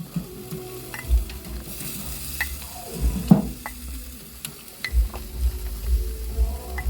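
Jerk chicken sizzling over a coal fire, with scattered sharp clicks and several dull low thumps.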